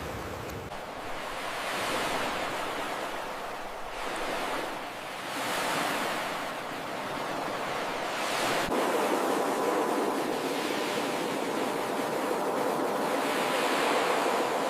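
Ocean surf washing ashore: a steady rush of water that swells and ebbs as waves break every few seconds.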